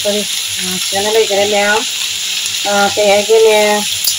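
Snails frying in spiced oil in a wok, a steady sizzle. A person's voice sounds over it in three stretches.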